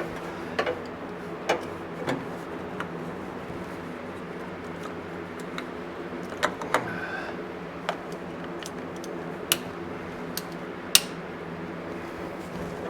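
Sharp metal clicks and clinks of hand tools on VW Bus engine parts while fittings are tightened, scattered irregularly and loudest about eleven seconds in, over a steady low hum.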